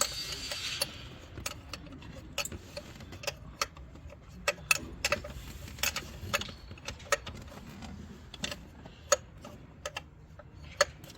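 Ratchet wrench clicking in short, irregular runs as bolts are tightened, with a brief hiss in the first second.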